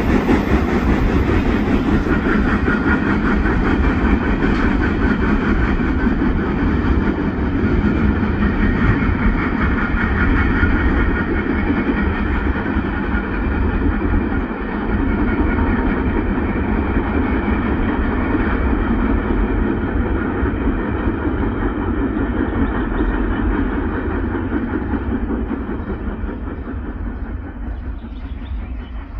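Freight train cars rolling past close by, steel wheels clattering and rumbling on the rails. Near the end the sound slowly fades and grows duller.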